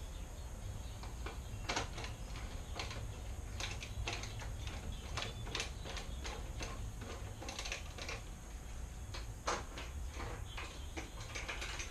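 Irregular light clicks and taps of hand tools on metal fasteners, about one or two a second, over a steady low hum.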